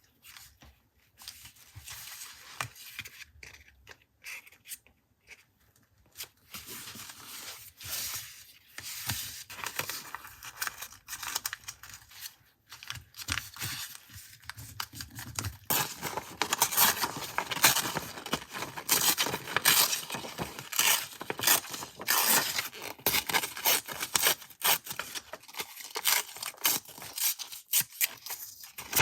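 Paper being handled for a journal collage: soft, scattered rustles and taps, then about halfway through a dense, louder run of crisp paper sounds of the kind made by cutting and tearing.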